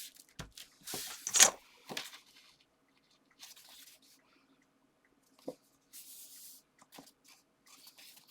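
Paper and card stock being handled on a craft table: short rustles, light taps and brief scraping or tearing sounds, the loudest about a second and a half in.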